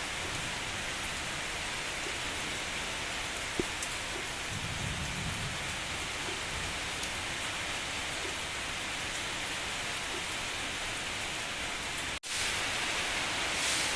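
Steady heavy rain, with a brief low rumble of distant thunder about five seconds in. The rain cuts out for an instant near the end and comes back a little louder.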